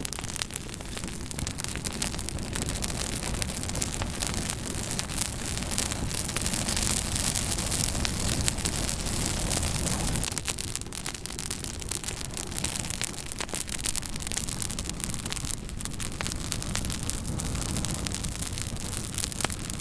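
Fire crackling: dense, rapid pops over a steady rushing hiss, a little louder for a few seconds in the middle.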